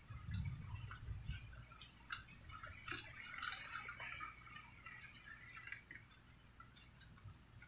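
Rain dripping: many small scattered drops ticking and pattering, thickest a few seconds in, with a low rumble during the first second and a half.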